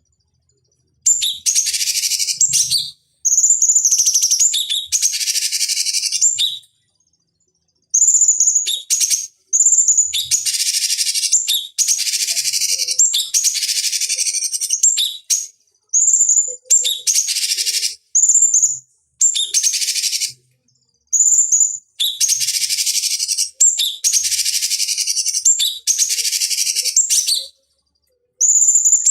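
Cucak cungkok singing loud repeated song bouts, each opening with a high clear whistle and running into rapid dense chattering, with short pauses between bouts.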